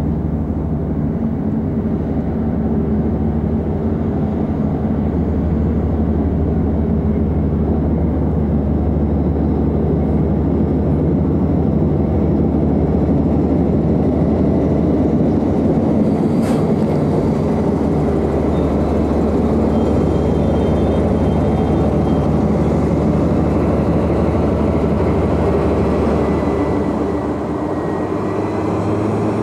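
Diesel train running with a steady, low engine note that builds and then eases off near the end.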